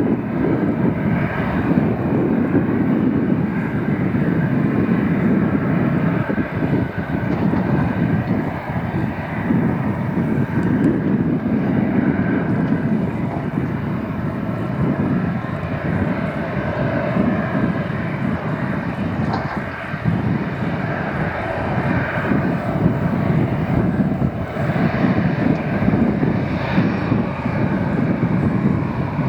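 Airbus A319 airliner's jet engines running in a steady, continuous rumble with wavering higher tones.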